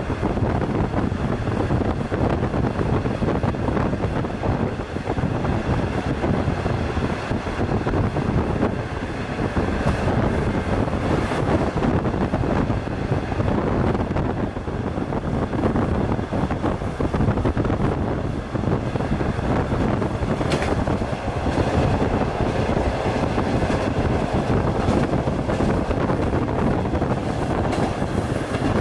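Beijing–Ulaanbaatar sleeper train running along the track, heard from inside the carriage: a steady rumble and rattle of the wheels and coach, with a few sharp clicks.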